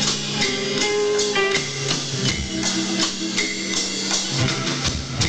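Live rock band playing an instrumental passage: electric guitar notes over drum kit and tambourine.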